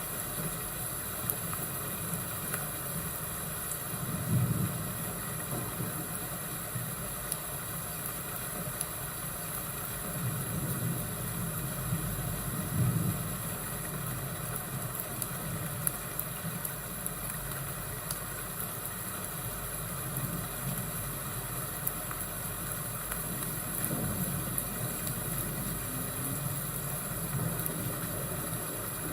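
Thunderstorm and fireplace ambience: steady rain hiss, with low rolls of thunder swelling about four seconds in, again around ten to thirteen seconds, and near the end, and faint scattered crackles of a fire.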